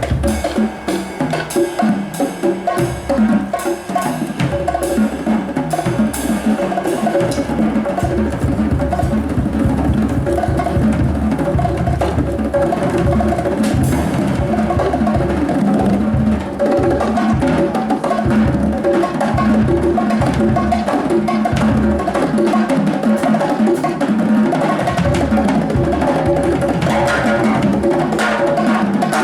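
Live band music with busy drums and percussion: sharp clicking strokes over a dense, steady instrumental texture.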